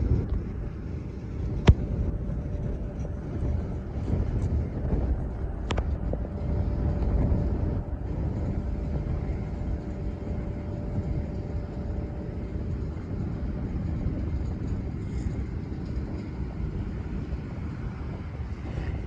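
Steady low rumble of jet aircraft engines with a faint steady whine over it, and two sharp clicks, the first and louder one about a second and a half in.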